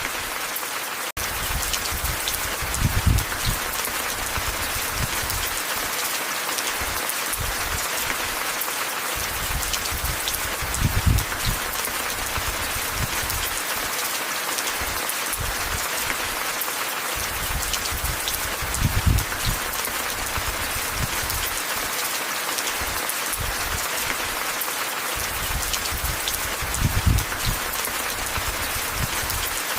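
Steady rain with a dense patter of drops. A low rumble swells up four times, about every eight seconds, and there is a very short dropout about a second in.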